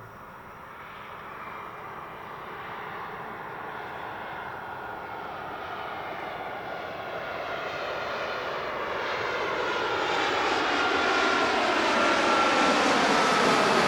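Boeing 787-8 airliner's jet engines on approach to land, growing steadily louder as it comes closer, with a thin whine joining the roar near the end.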